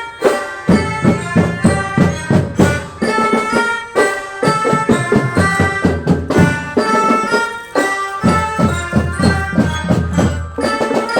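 School drum band playing a march: drums and other percussion beating a steady rhythm under a sustained melody line.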